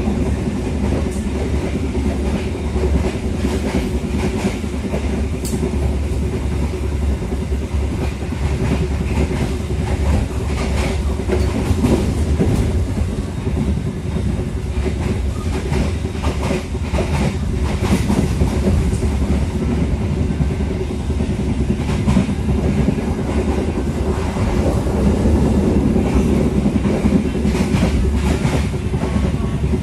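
Inside a passenger coach of a locomotive-hauled train running at speed: a steady rumble of wheels on the rails, with irregular clacks over the track.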